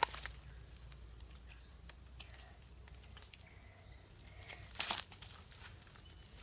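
Steady high-pitched drone of insects in the jungle. Sharp clicks come at the start and again about five seconds in.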